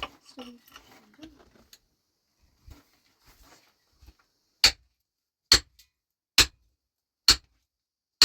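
A hand tool striking something hard: sharp, loud blows at a steady pace of just over one a second, beginning about halfway through, five in all. Before them there are only faint small knocks and rustling.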